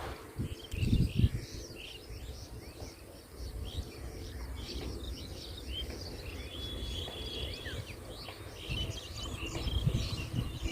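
Small birds chirping busily in many short calls, over irregular low rumbling noise that swells near the start and again near the end.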